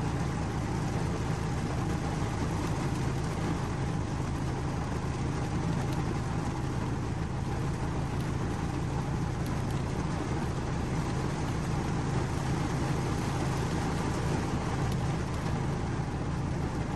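Steady rain noise with a strong, deep rumble underneath.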